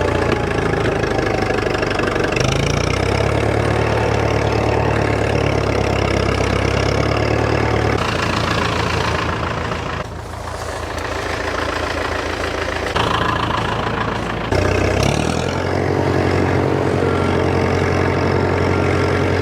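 Narrow-front farm tractor's engine running steadily as it drives. Its pitch shifts a few times; about ten seconds in it drops and grows quieter, then picks back up a few seconds later.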